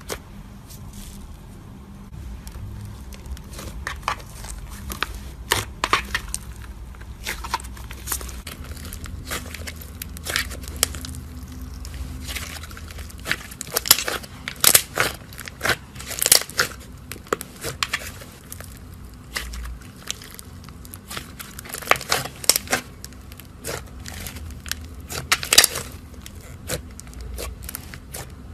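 Butter slime being squeezed and worked by hand, giving irregular crackling and popping clicks that come thicker and louder in the middle and again near the end, over a low steady hum.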